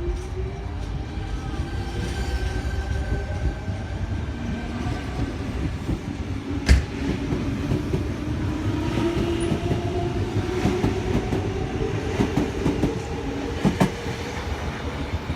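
Tangara electric train pulling away, its motor whine slowly rising in pitch as it gathers speed over a steady rumble of wheels on rail. There are a few sharp clacks from the wheels over rail joints, one about seven seconds in and a couple near the end.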